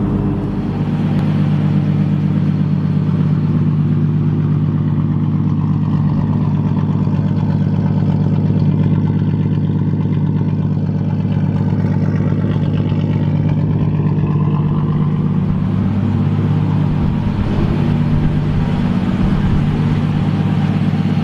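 Turbocharged Nissan RB-series straight-six idling steadily and smoothly, the engine settled with its gauges reading normal.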